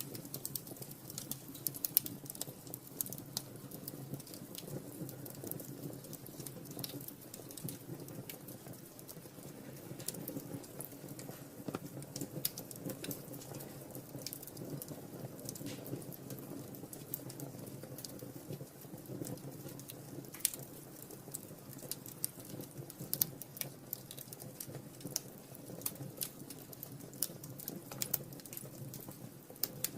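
Wood fire burning in a fireplace: irregular crackles and small pops over a steady low rumble of the flames.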